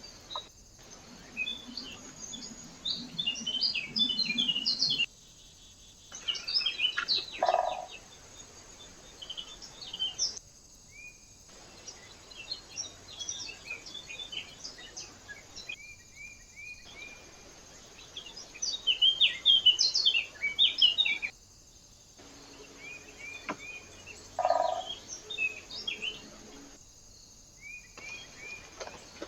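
Small birds chirping and twittering at a feeder, in a series of short recordings that start and stop abruptly.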